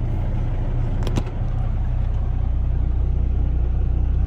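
Semi truck's diesel engine idling steadily, with a brief click about a second in.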